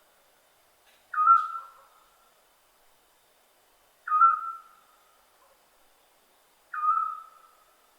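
Scops owl calling: a single short whistled note repeated three times, about three seconds apart, each starting sharply and fading away.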